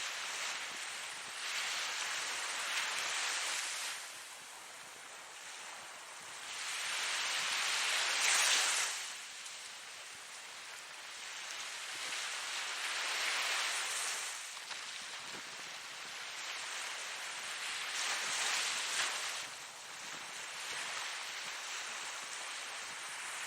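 Ocean waves breaking and washing on a shore, the surf swelling and fading every five seconds or so, with the loudest break about eight seconds in.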